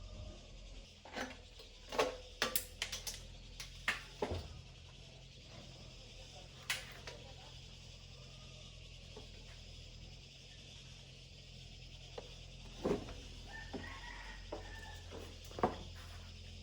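Small parts and hand tools being handled during a rice cooker repair. There are scattered sharp clicks and knocks, a cluster in the first few seconds and a few more near the end, over a steady low hum.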